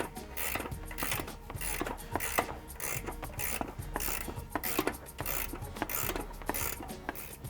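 Hand ratchet wrench clicking in repeated back-and-forth strokes, a little over half a second apart, as the shock's top mounting nuts are loosened.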